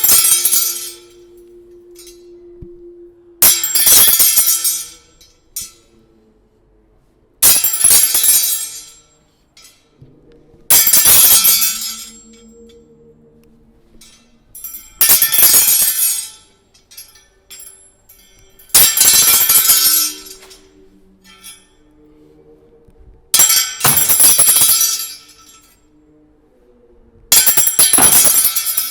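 Office chair parts made to clink and rattle in eight loud bursts, each about a second long and about four seconds apart, with faint low tones sounding between them.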